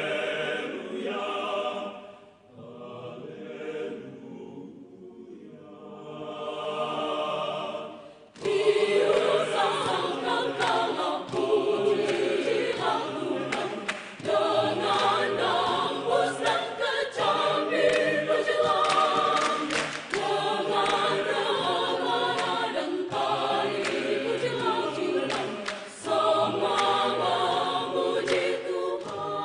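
A choir singing: a soft, thin passage, then a sudden loud full entry about eight seconds in, with sharp percussive clicks through the loud part.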